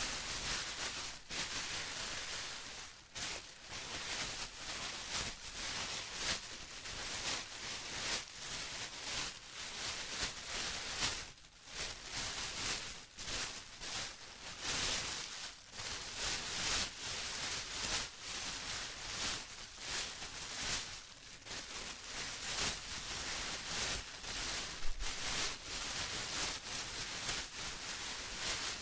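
Plastic being rustled and crinkled continuously, a crisp hissy crackle that rises and falls in irregular small surges.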